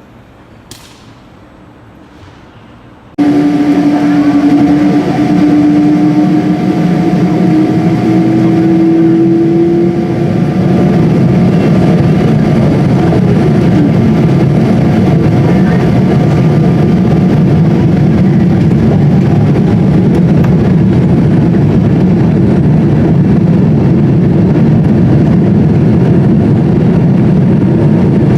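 A vehicle running steadily and loudly. The sound starts abruptly about three seconds in, and its hum rises slightly in pitch over the following seconds.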